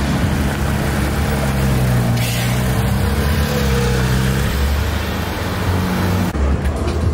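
Car engine running steadily at low revs, its pitch shifting slightly about halfway through.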